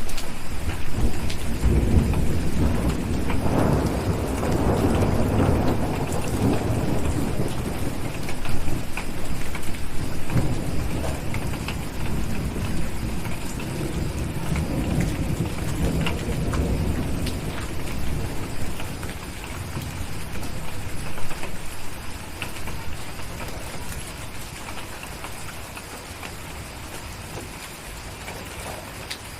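Steady rain with a long roll of thunder rumbling through the first half and slowly dying away.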